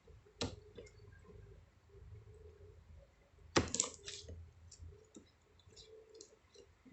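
Small objects being handled: a sharp click about half a second in, then a brief louder cluster of clicks and rustling about three and a half seconds in, with faint ticks between.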